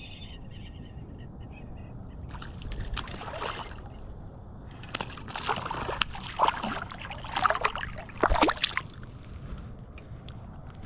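Water splashing and sloshing close by from a hooked smallmouth bass thrashing at the surface as it is landed, in two spells: a short one about two seconds in, and a longer, louder one from about five to nine seconds.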